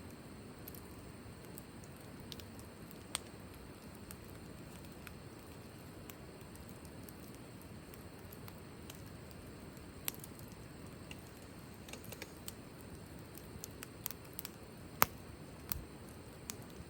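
Wood campfire burning in a fire stand: scattered sharp crackles and pops over a faint steady background. The pops come more often in the later part, with the loudest about fifteen seconds in.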